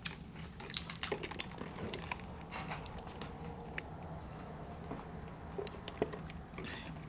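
Close-up eating sounds: tortilla chips being bitten and chewed, heard as scattered crisp crunches and mouth clicks, thickest about a second in, over a steady low hum.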